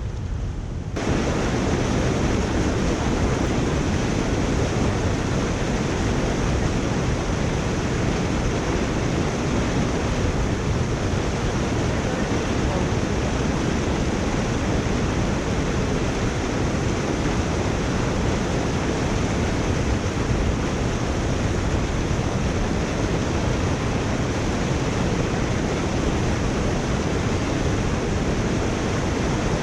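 Water rushing steadily through a culvert drain, an even rushing noise that turns brighter and louder about a second in.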